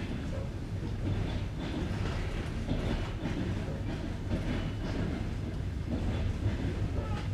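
Passenger train wheels clattering over the joints of jointed (non-welded) rail, heard from aboard the moving train: a steady low rumble with repeated knocks.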